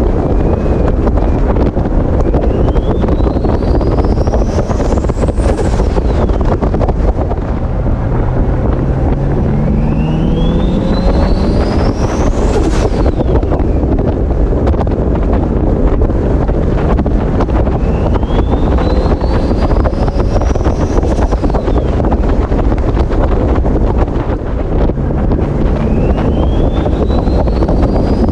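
The big turbocharger on a Toyota Supra spooling up under acceleration: a rising whistle climbs four times, and each of the first three cuts off suddenly at its peak. Heavy wind buffeting on the microphone and engine rumble run underneath.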